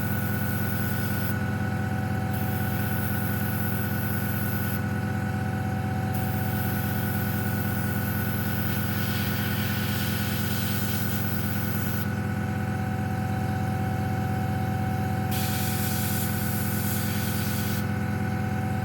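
Airbrush hissing in about four stretches of a few seconds each as the trigger is pressed and released to spray thin coats of paint, over a steady motor hum.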